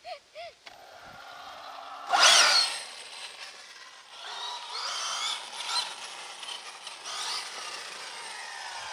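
Electric 1/5-scale RC car driving, its Lehner 3080 sensored brushless motor whining up and down in pitch as the throttle changes. The loudest surge comes about two seconds in.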